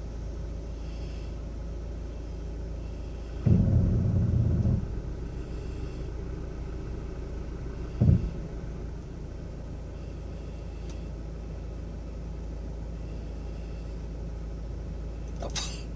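A car's engine running with a steady low rumble, heard from inside the cabin. About three and a half seconds in there is a louder low burst lasting about a second, and a short knock comes a few seconds later.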